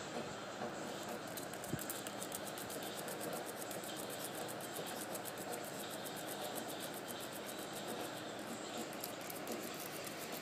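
Heavy rain hissing steadily, with a fast run of faint ticks over it from about a second in.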